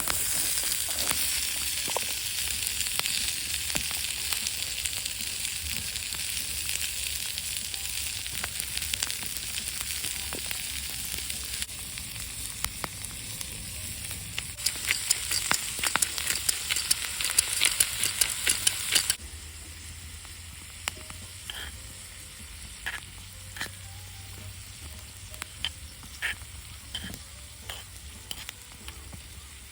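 Meat sizzling on a thick iron griddle plate: a loud frying hiss starts suddenly, grows more crackly, then drops off abruptly about two-thirds of the way through to a faint sizzle with scattered pops.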